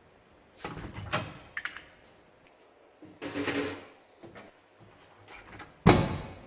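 Brake caliper parts and hand tools being handled during a strip-down: a couple of sharp knocks and clicks about a second in, a short scraping stretch around halfway, and a louder knock near the end.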